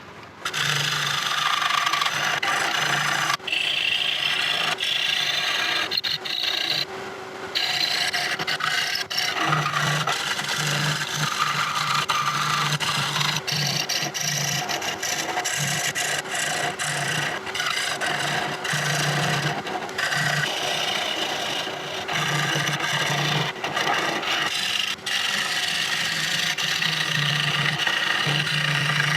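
A tool cutting a rosewood bowl blank spinning on a Laguna Revo 18|36 wood lathe: a continuous rasping, scraping noise of the cut, with a low motor hum that comes and goes. The cut pauses briefly about seven seconds in.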